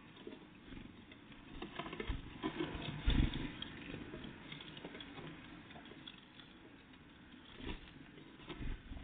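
Great tits and blue tits at a feeder: irregular light pecking, tapping and scrabbling, with a few louder thumps, the loudest about three seconds in.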